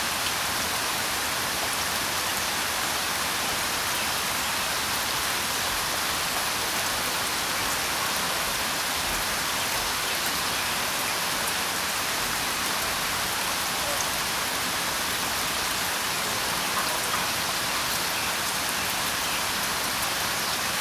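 Steady rain falling: an even, dense hiss with fine drop ticks scattered through it.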